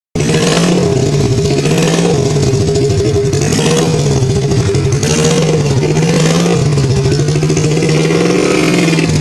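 Small engine of a homemade mini-chopper motorbike running steadily, its pitch rising and falling slightly.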